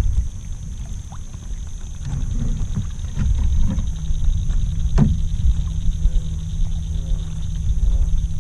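Low rumble of water and handling noise as a kayak is worked through a creek at night, with one sharp knock about five seconds in. Under it runs a steady high chorus of night insects, and from about six seconds frogs give short croaks, repeated about once a second.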